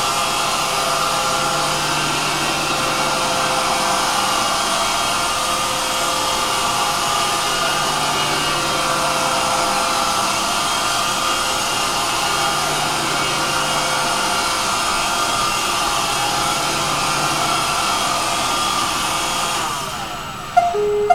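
iRobot Roomba 560 robot vacuum running its spot-clean cycle on carpet: a steady motor and brush whine. It shuts down near the end, followed by a few short beeps.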